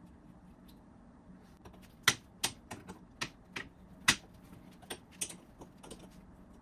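Irregular sharp metallic clicks and clinks, about a dozen, beginning around two seconds in, from hand tools and loose parts being handled while working on the rear hub studs.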